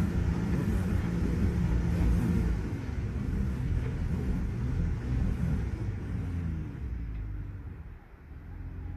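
Jeep Gladiator pickup's engine running at low speed with a low rumble, its pitch wavering, then fading down over the last few seconds.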